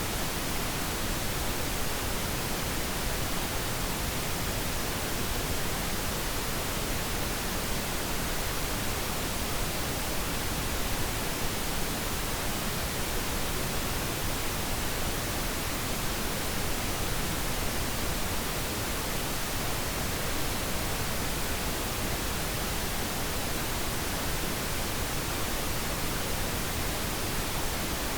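Steady, unbroken pink noise, an even hiss that never changes, played as a sleep sound for a baby.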